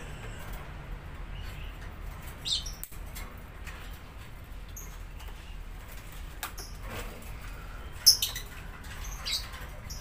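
A small trapped bird giving short, high squeaky chirps a few times, the loudest about eight seconds in, among light clicks and knocks.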